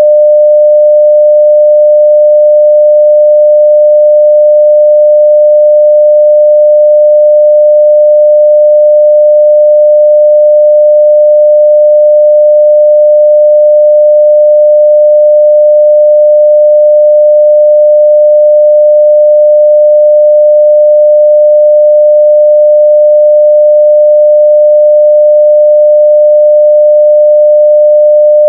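A steady 600 Hz sine-wave test tone at full level, one unchanging pure pitch.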